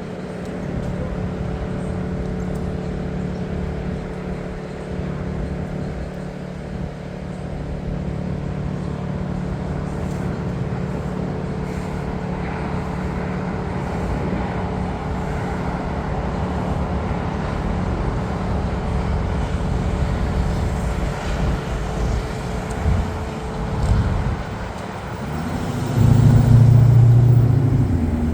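Steady engine hum with a few held tones and a background of traffic-like noise. A louder, lower engine sound swells up about two seconds before the end.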